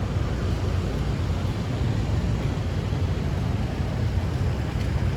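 Steady low rumble of outdoor noise while cycling along a city street, with no distinct events.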